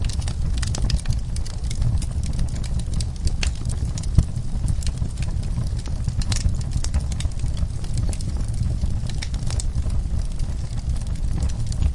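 Wood fire crackling and popping, with irregular sharp snaps over a steady low rumble. One louder pop comes about four seconds in.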